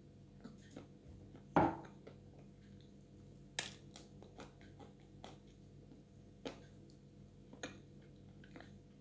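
Close-up mouth sounds of eating soft, wet Chuy edible clay paste: faint chewing with scattered wet smacks and clicks. One louder sudden sound about a second and a half in, and sharper clicks near the middle and twice near the end.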